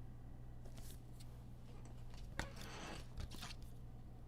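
Trading cards being handled, with light clicks and short rustles of card and plastic. A sharp click about two and a half seconds in is followed by a brief crinkly rustle. A low steady hum sits under it all.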